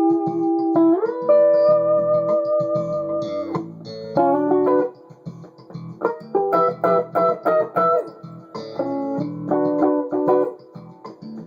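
Electric guitar lead through the bridge P-Rails pickup in humbucker mode, over a looped backing track. A held note bends up about a second in and sustains for a couple of seconds, then the playing drops off briefly and comes back as quick runs of short notes.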